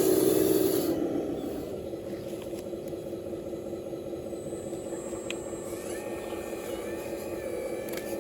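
Excavator machinery running steadily with a low hum. A hiss is loud in the first second, and a higher, wavering whine joins about six seconds in.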